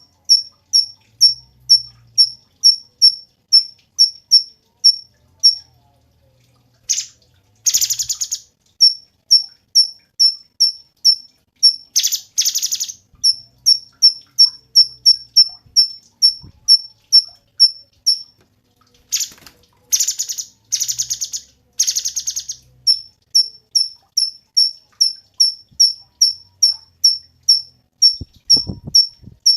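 Cucak cungkok singing: a short, high, clipped note repeated about twice a second, broken several times by rapid rattling trills of about half a second each, once and twice near the start, twice around the middle and four in a row later on.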